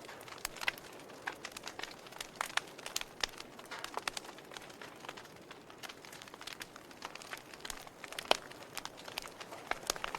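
Wood fire in a fireplace crackling, with irregular small snaps and pops over a soft hiss and one louder pop about eight seconds in.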